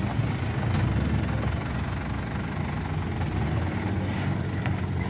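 Heavy truck's diesel engine running steadily at low revs, a steady low engine note with a few faint clicks.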